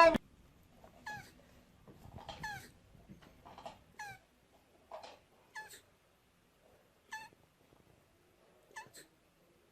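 A cat mewing: about ten short, high mews that each fall in pitch, coming at uneven intervals.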